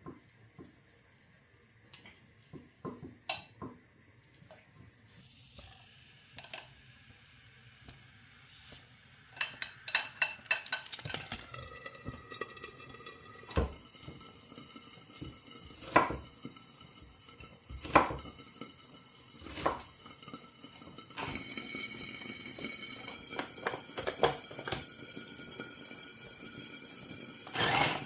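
Dishes being washed at a kitchen sink: a few light clicks and knocks, then the tap comes on about eleven seconds in and runs steadily while plates and utensils clink and knock against each other. The water runs harder from about twenty-one seconds.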